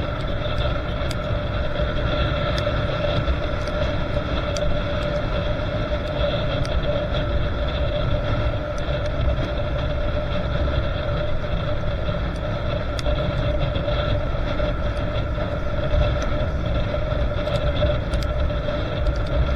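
Motorcycle engine running at a steady cruising speed, with an unchanging drone and rumbling wind noise on the microphone.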